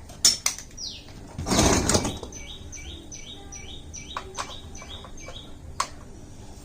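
A bird calling in a quick series of short falling chirps, about three a second, starting a couple of seconds in. Before it come two sharp clicks and a loud burst of hiss lasting about half a second, the loudest sound here.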